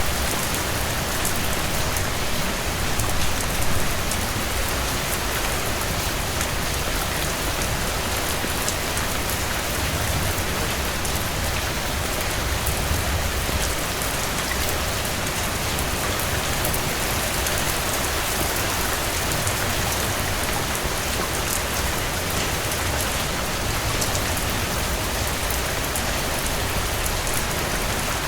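Heavy rain falling steadily, with a low rumble underneath that swells now and then.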